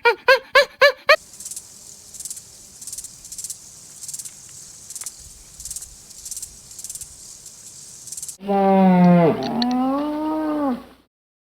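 A few short, high, arching animal calls, then several seconds of a quieter rhythmic rasping hiss. About eight seconds in, a cow moos once, a long low call lasting over two seconds that bends in pitch.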